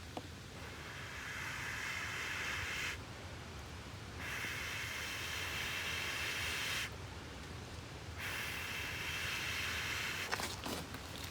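Someone blowing hard on campfire kindling to get it to catch: three long, hissing breaths of about two and a half seconds each, with short pauses between. A few faint clicks near the start and end.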